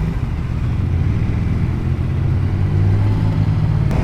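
Motorcycle engine running steadily while riding along a road, with wind and road noise over it.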